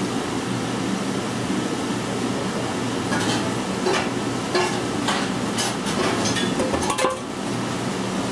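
Parmigiano Reggiano being grated over a plated pasta: short, irregular rasping strokes on a cheese grater, starting about three seconds in. They sit over a steady background hum.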